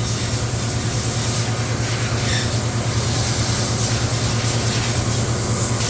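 A motor running steadily: a constant low hum under an even hiss.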